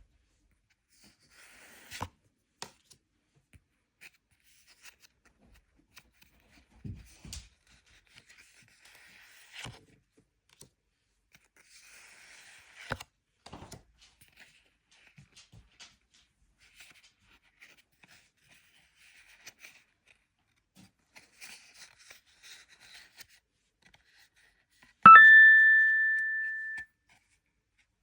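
Card packaging being handled: scattered taps, clicks and soft rustling and tearing of wrappers. Near the end comes one loud bright chime-like ring that fades for under two seconds and then cuts off suddenly.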